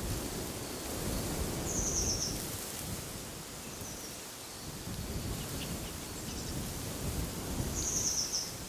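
Wind blowing in gusts with a low rumble, and a bird giving a short, high, rapid trill twice, about two seconds in and again near the end.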